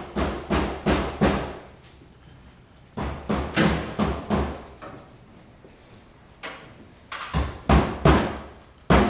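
Hammer blows in quick runs of four or five strikes, about three a second, with pauses of a second or two between runs, as in demolition work.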